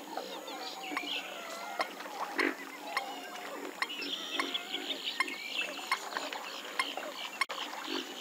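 Western swamphens calling: many overlapping calls that bend up and down in pitch, with short clicks scattered throughout.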